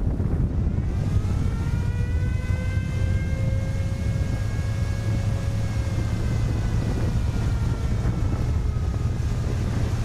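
Deep, continuous rumble of an erupting volcano. Over it a pitched, engine-like drone swells in from about a second in, bends slowly up and then down, and fades near the end.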